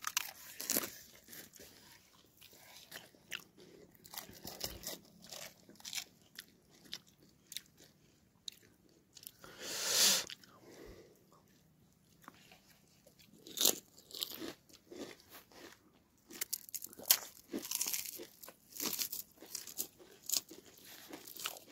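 Close-up crunching and chewing of panipuri, the crisp fried puri shells cracking between teeth in quick, irregular bites. A longer burst of noise comes about halfway through.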